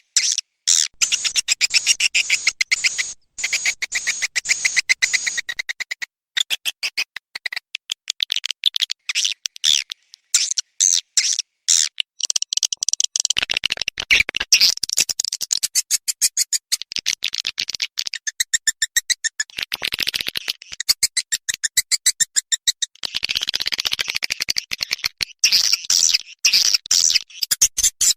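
Swiftlet call lure recording: rapid trains of clicks and high, twittering chirps in spells with short breaks. This is the kind of call track played to draw edible-nest swiftlets into a swiftlet house.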